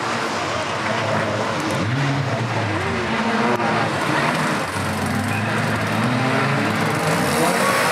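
Several banger racing cars' engines running and revving at once, their pitch rising and falling as they race around the oval.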